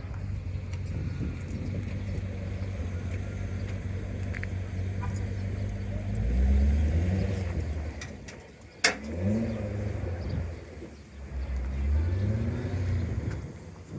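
Car engines at a cruise-in: a steady low engine rumble, then three rises and falls in engine pitch about six, nine and twelve seconds in as cars accelerate. A single sharp click comes just before nine seconds.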